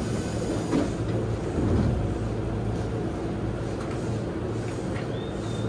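Keio Line commuter train standing at the platform with its doors open, giving a steady low hum, under the bustle of passengers boarding. There are a couple of knocks and a louder swell in the first two seconds.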